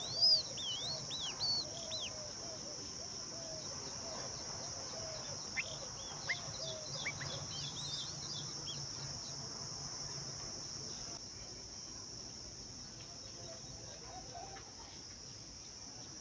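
Bird calls: sharp, quick chirps in clusters during the first two seconds and again from about six to nine seconds in, with a lower repeated call underneath for the first few seconds. A steady high-pitched insect drone runs beneath it all.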